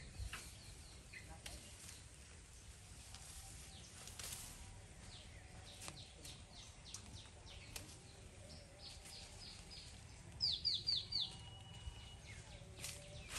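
Songbirds calling: scattered short high chirps throughout. About ten and a half seconds in comes a louder run of four quick falling notes, then a brief steady whistled note.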